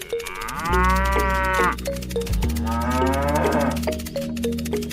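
A cow mooing twice, two long calls about a second apart, over background music with a repeating plucked melody and bass.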